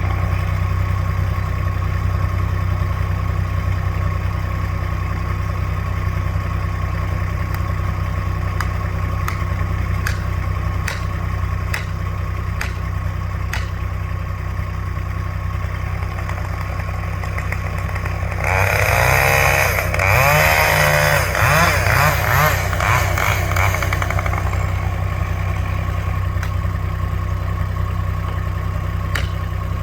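An engine idling steadily. Past the middle, a louder, wavering higher-pitched sound rises over it for about five seconds.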